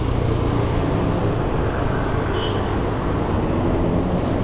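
Steady road-traffic rumble and wind rush on the microphone of a moving bicycle, with a brief high tone about halfway through.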